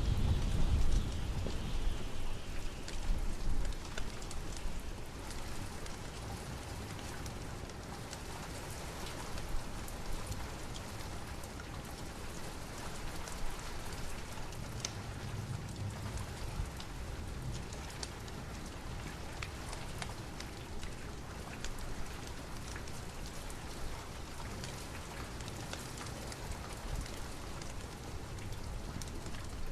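Steady rain, with a low rumble of thunder dying away over the first few seconds and scattered sharp ticks through the rain.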